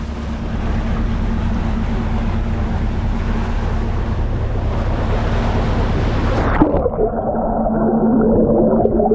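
Ship's engine running steadily with water churning and wind noise. About two-thirds of the way in the sound turns abruptly muffled, losing all its higher sounds, leaving a dull churning with wavering tones.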